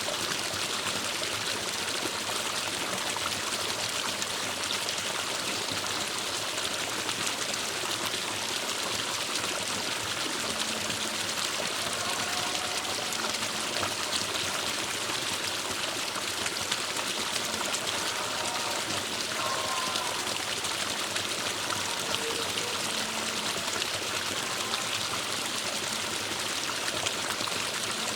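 Forest stream flowing steadily, an even rush of water.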